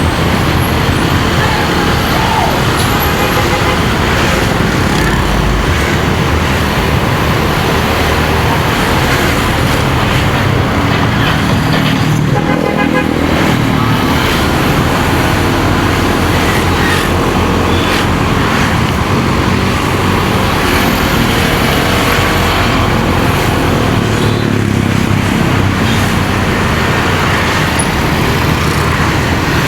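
Motorcycle engine running steadily on the move, under road and wind noise, with other traffic around it.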